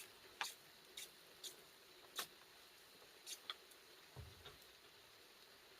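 Scattered light clicks and taps of eating utensils against a bowl, about one a second at irregular intervals, with a soft low thump about four seconds in.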